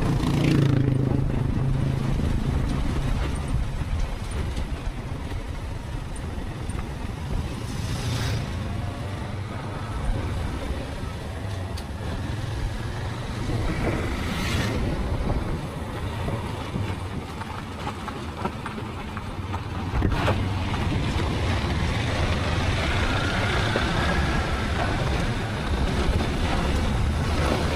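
Motorcycle riding at road speed: a steady low engine hum under constant road and wind-type noise, with a few brief louder swishes about 8, 14 and 20 seconds in.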